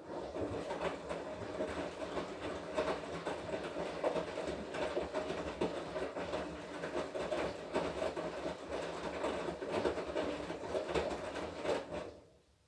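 Washing machine drum turning during the wash cycle, with the laundry tumbling and clattering irregularly. It starts abruptly and stops after about twelve seconds, as the drum pauses between turns.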